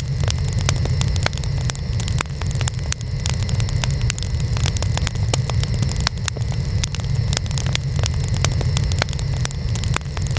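Burning wood fire crackling, with many sharp irregular pops over a steady low rumble of the flames.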